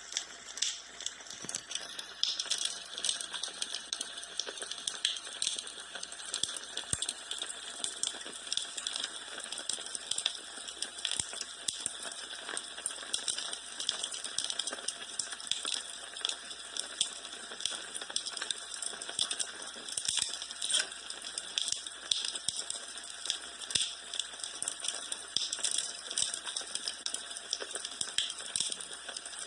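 Wood fire burning in a fireplace, crackling with many quick sharp pops and snaps over a steady hiss.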